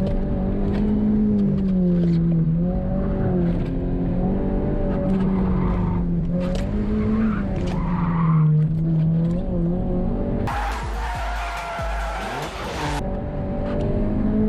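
Subaru BRZ engine through its aftermarket axle-back exhaust, driven hard around an autocross course, its pitch climbing and dropping again and again with throttle and shifts, with some tire squeal. Roughly two-thirds of the way through, a loud hiss covers the engine for about two seconds.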